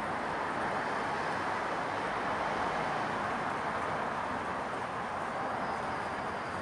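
Steady residential evening ambience: a constant, even hum of distant traffic, with no single event standing out.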